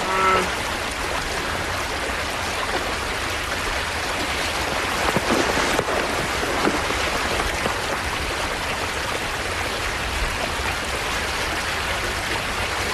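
Steady rush of river water. A short pitched call sounds right at the start.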